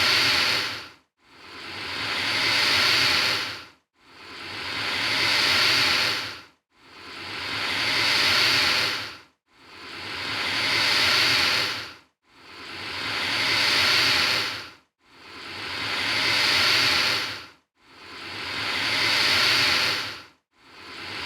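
Alligator hissing again and again, about eight hisses here, one every three seconds or so. Each hiss swells in loudness, holds briefly and then cuts off, with a short silence before the next.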